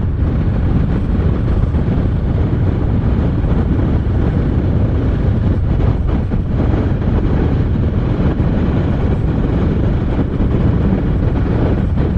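Motorcycle under way at a steady pace: a continuous low engine and road rumble mixed with wind rushing over the microphone.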